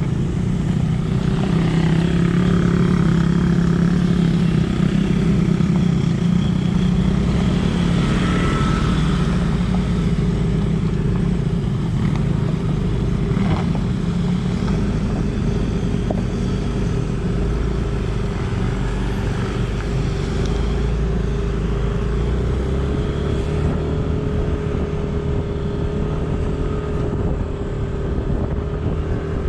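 Motor vehicle on the move: a steady engine hum with road and wind noise.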